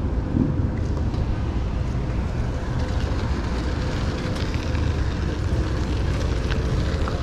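Steady low rumbling noise with no clear single event.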